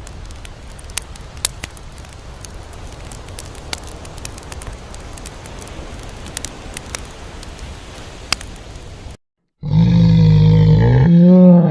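Background noise with scattered clicks and rustles, then after a brief silence a loud, drawn-out animal call that holds one pitch and bends near its end.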